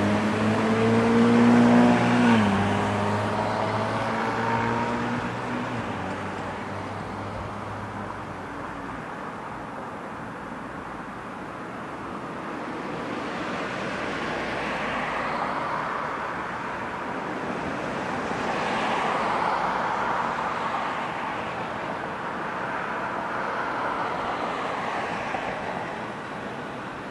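A vehicle engine accelerating, its pitch rising and then dropping once as it shifts gear, fading away within a few seconds. Then several more vehicles pass by on the road, each a rising and falling swell of tyre and engine noise.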